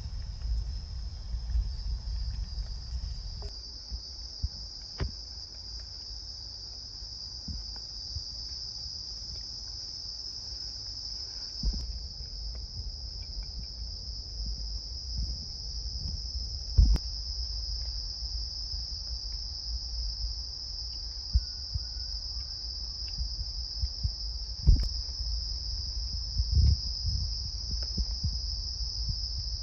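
A steady, high-pitched chorus of night insects in the forest, with a low rumble underneath and a few scattered knocks.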